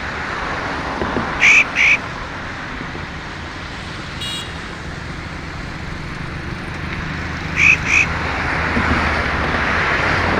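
Bird calls, short and sharp, coming in two quick pairs a few seconds apart, with one brief call in between. They sound over a steady, loud rushing background noise.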